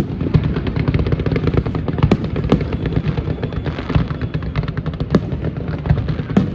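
Fireworks display: a dense barrage of rapid bangs and crackles, many per second, with a few louder bangs standing out over a steady low rumble.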